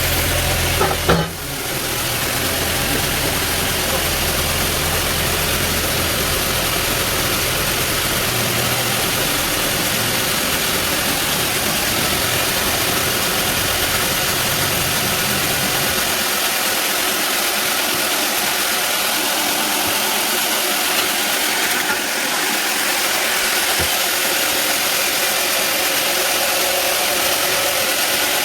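Sawmill bandsaw machinery running with a loud, steady noise, with a sharp knock about a second in. A low hum under the noise stops about halfway through.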